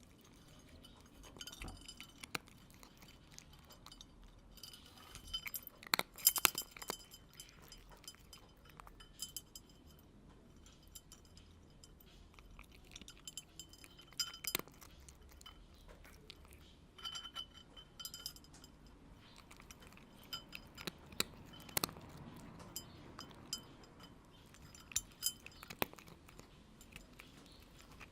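Small bell on a cat's collar jingling in short bursts every few seconds, among scattered light clicks and clinks.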